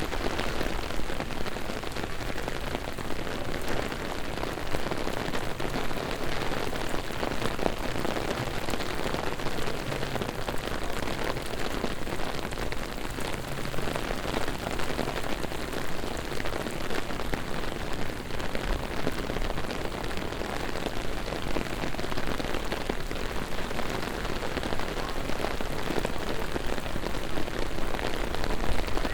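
Heavy rain falling steadily on a city street, an even hiss of drops on hard surfaces with no thunderclap standing out.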